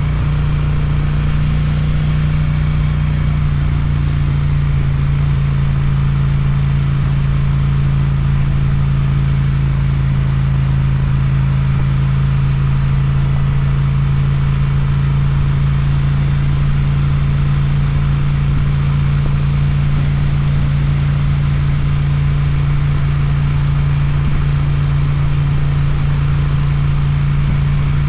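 Suzuki motorcycle engine with an Akrapovič exhaust, running steadily with one unchanging engine note and no revving.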